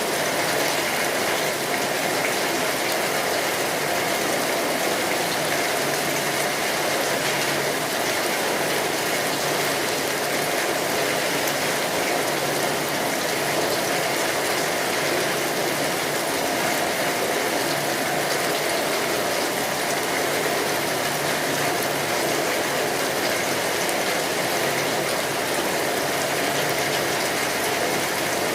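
Steady, dense rain on a tin roof, with faint crackles from a wood fire scattered through it.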